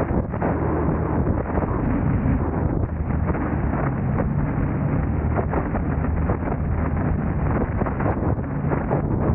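Car on the move: steady engine and road noise with a low hum, broken by frequent irregular knocks and wind buffeting on the microphone.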